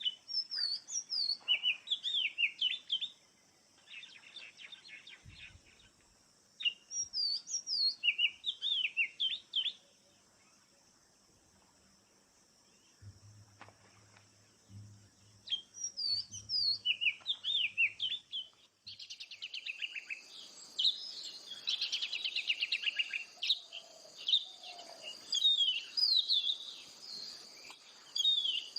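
Oriental magpie-robin (kacer) singing: phrases of quick whistled notes sliding downward, repeated every few seconds. About two-thirds of the way through, the song turns into a denser, louder, continuous run of notes over a steady high hiss.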